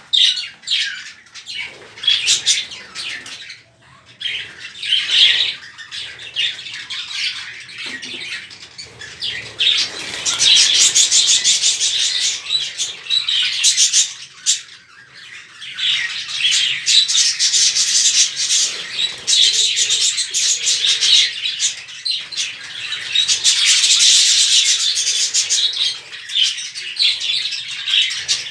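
A flock of budgerigars chattering: many rapid warbling chirps and squawks overlapping without a break, busiest in the second half, with some wing flapping.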